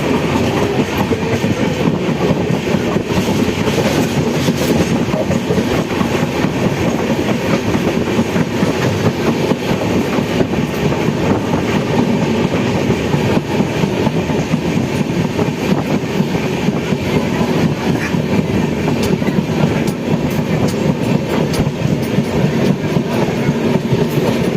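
Train running on the rails: a steady rumble with the rattle and clatter of wheels on the track.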